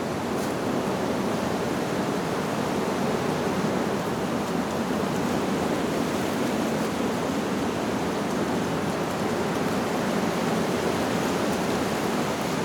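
Steady rushing of wind blowing through leaves.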